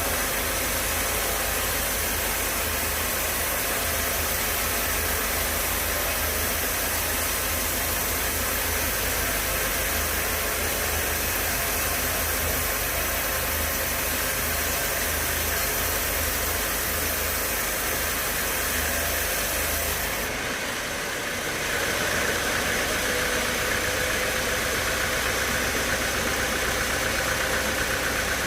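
Sawmill machinery running steadily. About 21 seconds in, the sound dips briefly and then changes, with a steady whine coming in.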